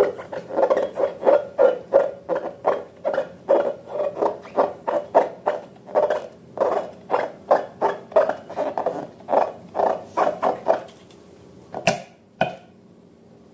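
Slime being worked by hand, squelching in a quick regular rhythm of about three squishes a second that stops near the end, followed by two sharp clicks.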